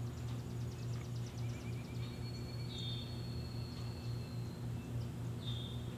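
Birds calling outdoors: a quick trill of high chirps near the start, then several clear whistled notes, over a steady low hum.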